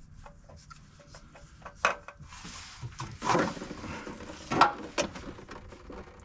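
Handling noise from parts and tools: scattered light clicks and knocks, a short rustle, and two louder scrapes about a third and two thirds of the way through.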